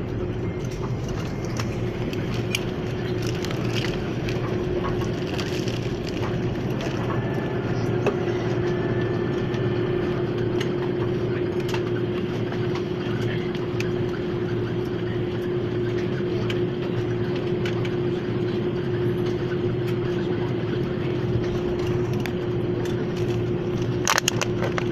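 Jet airliner cabin noise: a steady rush of engines and airflow with a constant mid-pitched hum, and a couple of short clicks near the end.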